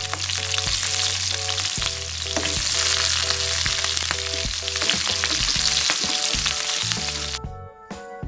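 Red chillies, shallots and garlic sizzling as they fry in hot oil in a wok. The sizzling cuts off suddenly near the end, leaving background music.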